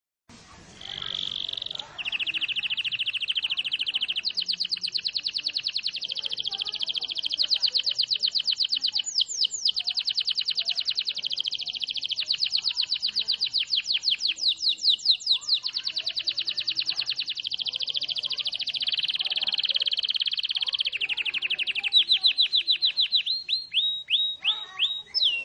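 Domestic canary singing a long, unbroken song of fast, high trills and rapid repeated notes. At times it breaks into runs of quick downward-sweeping notes.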